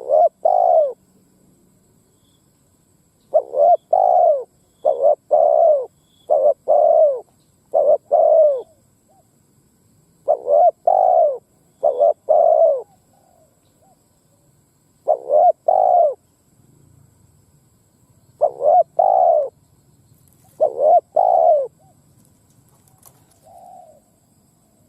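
Spotted dove cooing: about ten short phrases of two or three coo notes each, repeated with pauses of half a second to three seconds between them.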